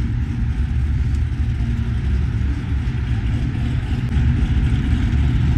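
Car engine running with a steady low rumble, getting slightly louder in the second half.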